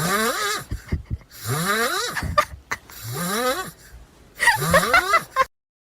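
Four snores in a row, each a rasping breath that rises in pitch over most of a second, then the sound cuts off abruptly near the end.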